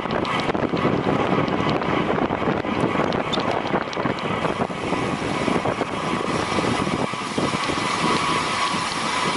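Steady rush of wind over a rider-worn camera's microphone at racing speed, mixed with continuous road and tyre noise.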